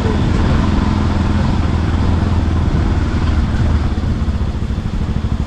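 Motorcycle engine running steadily at low revs, with an even, rapid firing pulse.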